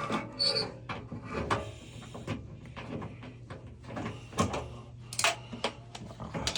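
Irregular clicks, knocks and scrapes of tools and metal parts being handled, with a sharper knock about four and a half seconds in, over a steady low hum.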